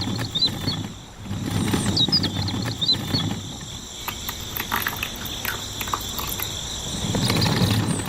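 Steady outdoor insect chirring with a few short bird chirps, over a louder low rumbling, crackling noise that dips about a second in and swells again near the end.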